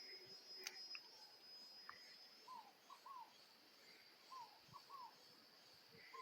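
Faint hen clucking, two short runs of soft calls, over a steady high-pitched insect drone.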